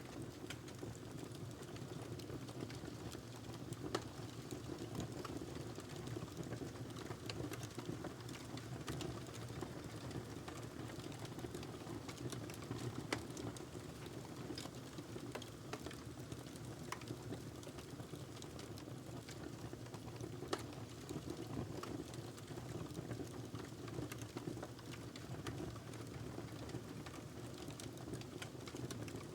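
Wood fire burning in a fireplace: a steady low rush of the flames with constant irregular crackling and small pops, a few sharper pops standing out.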